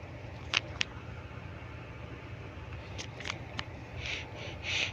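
Quiet room tone with a steady low hum, two short sharp clicks about half a second in, and a few faint soft hissy puffs near the end.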